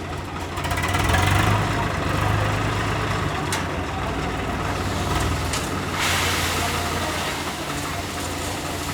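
Swaraj 855 FE tractor's three-cylinder diesel engine running; it swells louder about a second in and then holds steady. A single click comes about halfway through, and a hiss joins about six seconds in.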